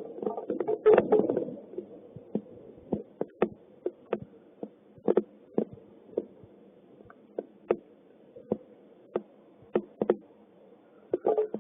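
Hailstones striking a hard surface: scattered sharp knocks, about one or two a second, many with the same short ring, thinning out in the middle and thickening again near the end.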